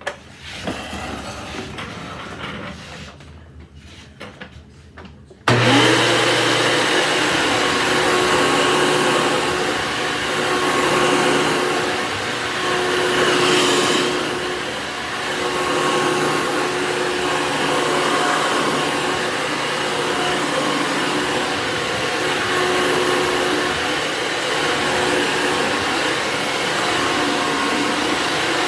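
A few light clicks, then an electric motor appliance switched on about five seconds in, running steadily with a whirring hiss and a faint hum.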